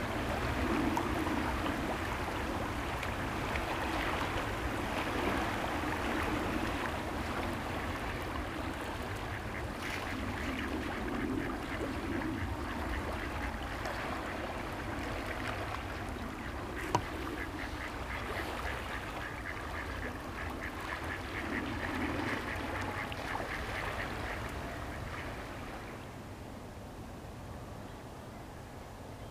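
Ducks quacking repeatedly over steady outdoor ambience, with a fast run of calls in the second half and a single sharp click partway through.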